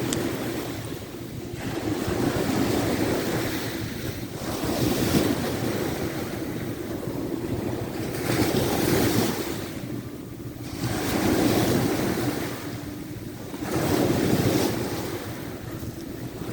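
Sea waves washing onto the shore, the surge rising and falling about every three seconds, with wind buffeting the microphone.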